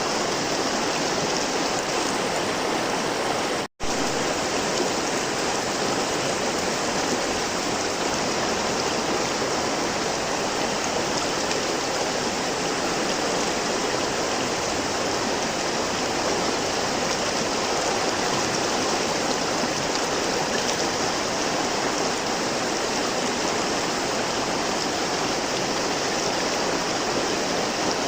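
River water flowing in a steady, even rush. About four seconds in, the sound drops out completely for an instant, then resumes.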